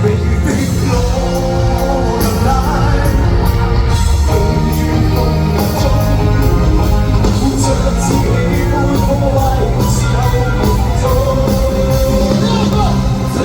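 Live band playing a rock song with a steady beat, with some singing over it.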